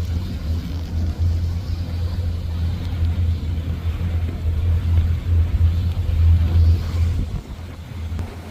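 Boat's new engine running under way: a steady low rumble, with wind buffeting the microphone, easing near the end.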